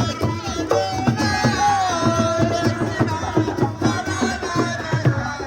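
Live music: hand drums played in a quick beat with voices singing over them, one note held for about a second near the middle.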